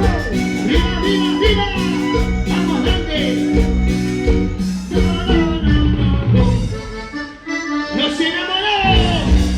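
Live Latin dance band playing an instrumental passage with a steady beat and an accordion-like lead melody. The bass and drums drop out briefly near the end, then come back in.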